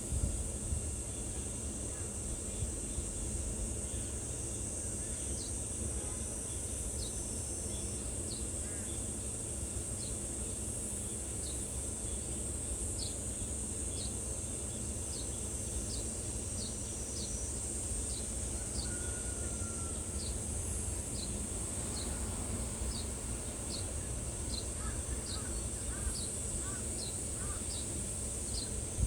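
Outdoor summer ambience: a steady high insect buzz, with a small bird repeating short, high, falling chips about once or twice a second from several seconds in, over a low steady rush.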